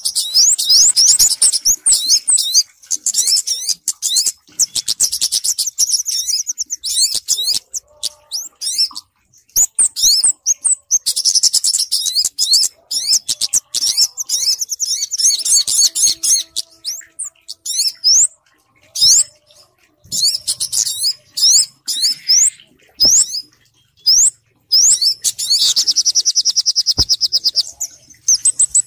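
Bird-lure recording of small songbirds, kemade and sogok ontong (spiderhunter) calls combined: rapid runs of high, sharp chirps and trills in bursts, separated by short pauses.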